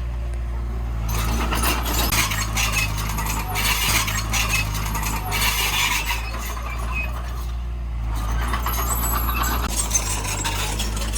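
Heavy earthmoving machine's diesel engine running with a steady low drone, with stretches of rattling and scraping noise over it, typical of soil being dumped or pushed.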